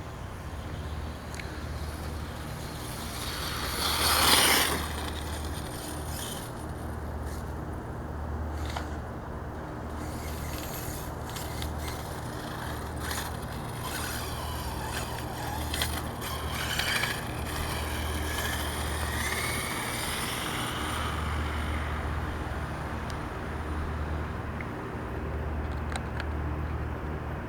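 Electric 1/5-scale Redcat MT RC monster truck running on 8S, its motor whine rising and falling as it speeds up and slows. There is a loud rush about four seconds in as it passes close.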